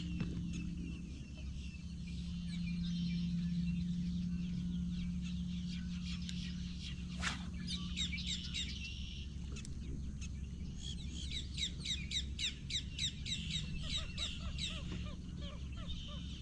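Birds chirping and calling, with quick runs of falling notes in the second half, over a steady low hum.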